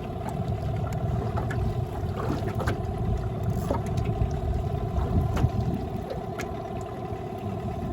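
Small boat's outboard motor running steadily at trolling speed, with a rough low rumble and a few light clicks over it.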